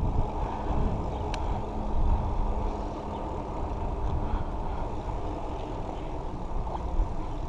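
Wind buffeting the microphone and low road rumble from a mountain bike rolling downhill, a steady rough rushing noise, with one faint click about a second and a half in.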